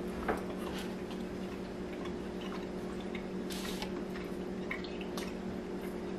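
Quiet chewing of steak, with small clicks and smacks and a brief scrape of a fork on a paper plate about three and a half seconds in, over a steady low hum.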